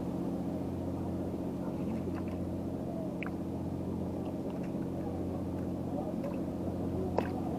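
Boat engine running steadily in a low, even hum, with a few faint short chirps and ticks over it.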